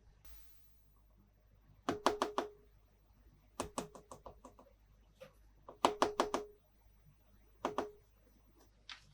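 Hard plastic toy pieces being tapped and clicked, in quick clusters of three to five sharp clicks with a short ringing note. A brief soft rustle comes just before them.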